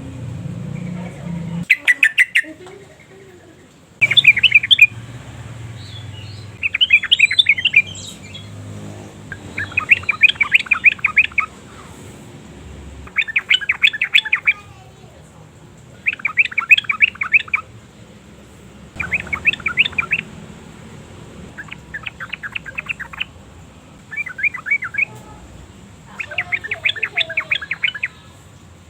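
Yellow-vented bulbul singing: short, bubbly phrases of rapid notes, each lasting about a second, repeated every two seconds or so.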